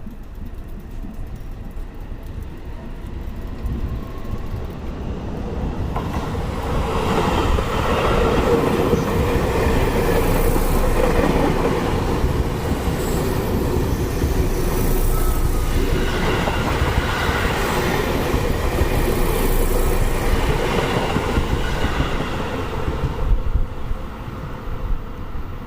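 A Seibu Railway electric commuter train running past on the rails. Its noise swells about six seconds in, stays loud through the middle, and fades near the end.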